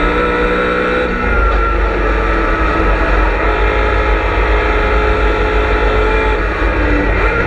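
V8 engine of a BMW M3 E92 race car heard on-board at racing speed. The engine note shifts about a second in, holds under load, and the revs climb again near the end.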